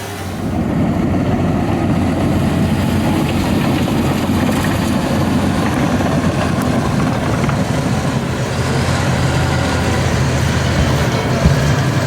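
A motor vehicle's engine running steadily under way, a low even drone with a rumble. It grows louder about half a second in.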